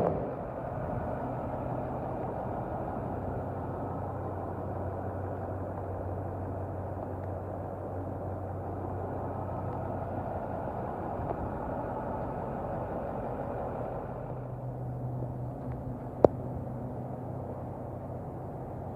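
2012 International 4300 box truck's engine idling steadily, with a single sharp click near the end.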